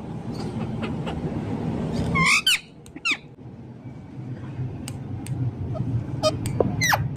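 Pet parrot giving a few shrill squeaks and squawks with falling pitch, the loudest about two and a half seconds in and another near the end, with short chirps between, over a steady low rumble.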